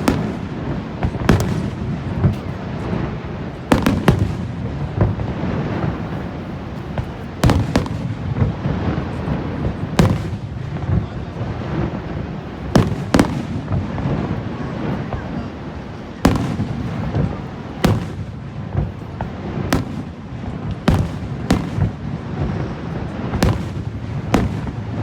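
Fireworks shells bursting: a string of sharp bangs at irregular intervals, one every one to three seconds, over a steady background noise.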